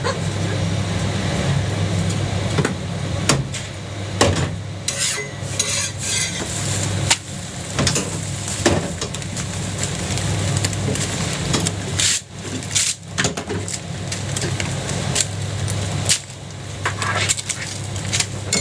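Metal utensils clicking, knocking and scraping on a jianbing griddle, over a steady low hum.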